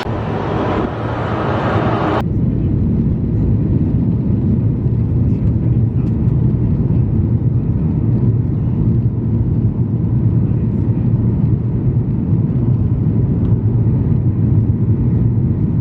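Steady, loud low rumble of a vehicle in motion heard from inside, after an abrupt change about two seconds in from a brighter, fuller travel noise.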